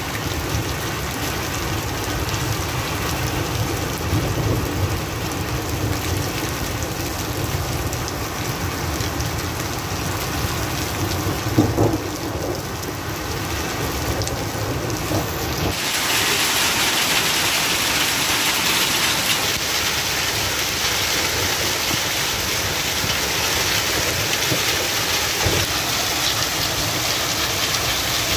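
Heavy rain mixed with hail beating down on open ground, a dense steady hiss with a low rumble under it. About 16 s in it turns to a brighter, louder hiss.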